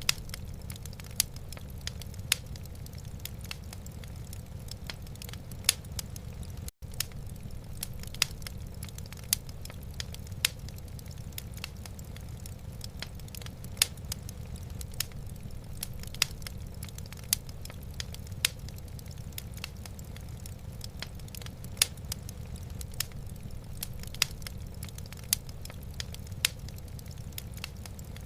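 Wood burning in a fireplace, crackling with frequent sharp, irregular pops over a steady low rumble. The sound drops out for a moment about seven seconds in.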